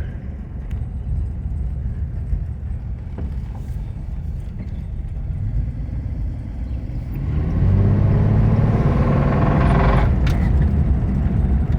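Dodge Slant Six inline-six engine in a 1966 Dart running on the road, then about seven seconds in it is put under hard acceleration, getting louder with a rising note. This is the load at which it has a bad rod knock, which shows only when the engine is pushed or held around 2,000 RPM.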